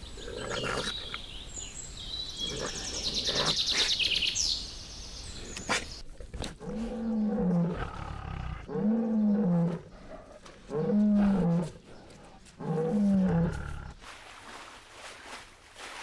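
An animal calling: high, rapidly pulsed calls in the first few seconds, then four low calls of about a second each, every one rising and then falling in pitch, about two seconds apart.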